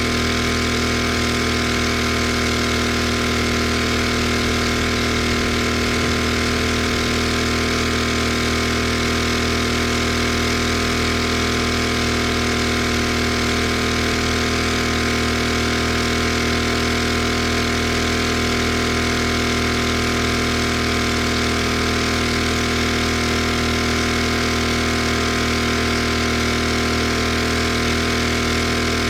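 Pressure washer's small gasoline engine running steadily at a constant speed.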